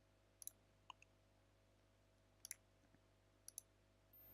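Near silence with about half a dozen faint, short clicks spread over a few seconds, some in quick pairs, the kind made while working a computer.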